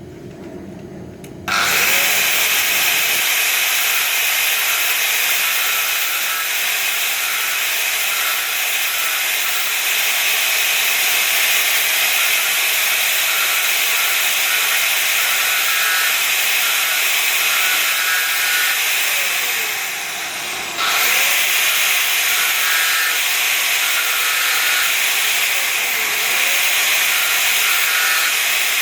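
A handheld power tool running continuously under load, with a steady hissing grind. It starts about a second and a half in and eases off briefly near twenty seconds before picking up again.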